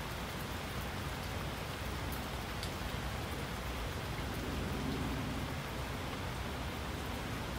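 Steady rain falling: an even hiss with scattered sharp drip ticks. A faint low rumble swells briefly about two thirds of the way through.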